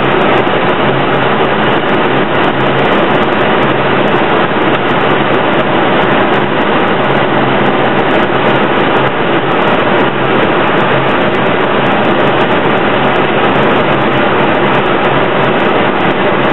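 Steady airflow and engine noise in an Airbus A321 flight deck on final approach, a loud unbroken rush with a faint low hum under it.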